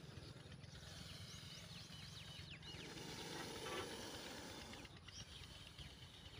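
Faint small-bird chirps, many quick short calls in the first half, over a steady low rumble, with a brief noisy swell a little past the middle.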